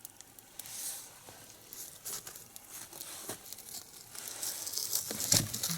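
Smouldering single-log nodya fire hissing and crackling with scattered sharp pops, the hiss growing in the second half, and a dull thump near the end.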